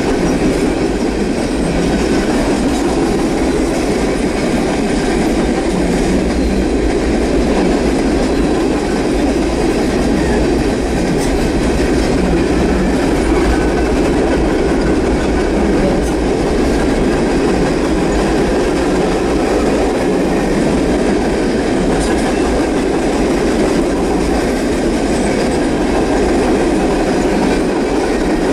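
Norfolk Southern freight train's cars rolling past on the rails, a loud, steady rumble of wheels on track that does not let up.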